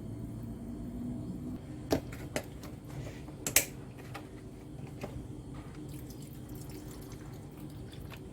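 A few sharp clicks and knocks, the loudest about three and a half seconds in, over a low steady hum, like kitchen utensils or dishes being handled.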